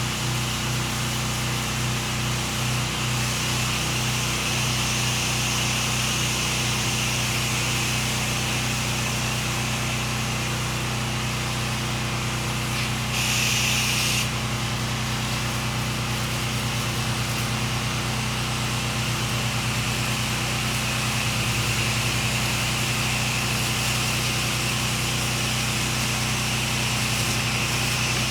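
Pressure washer engine running steadily, with a hiss over it and a brief louder spray of hiss about halfway through.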